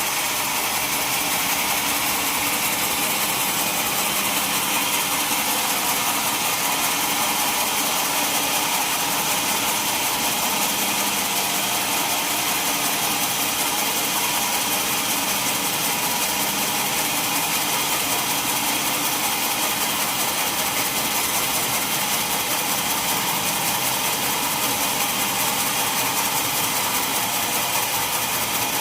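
Sawmill saw running steadily through a long mahogany log, an even, unbroken machine noise with no change in pitch or loudness.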